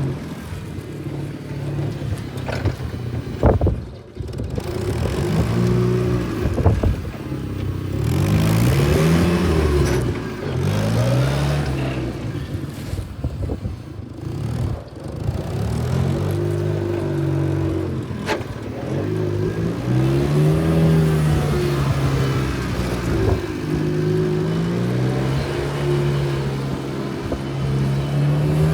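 Engine of a TCM FG10 forklift running and revving up and down again and again as it is worked, with a few sharp knocks.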